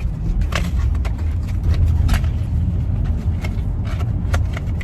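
Low, steady rumble of a moving car heard from inside the cabin, with scattered short clicks and knocks.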